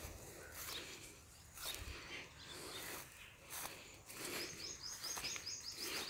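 A bird calling a rapid run of short, high, repeated notes, about five a second, starting a little past the middle. Scattered light clicks and rustles sound throughout.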